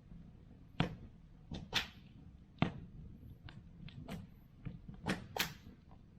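Wood campfire crackling, with about ten sharp, irregular pops and snaps from the burning wood over a low steady crackle.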